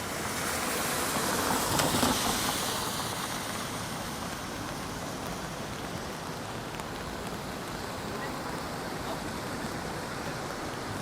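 A vehicle passes on a wet street, its tyre hiss swelling to a peak about two seconds in, then a steady hiss of rain and wet-road traffic.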